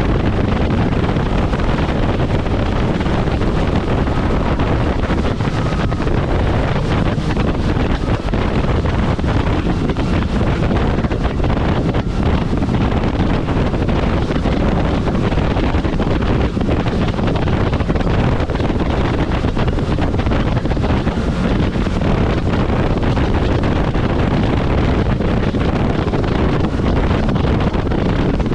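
Kawasaki jet ski running at speed across open water, its engine and spray buried under heavy wind buffeting on the microphone. The sound is a loud, steady rush with no let-up.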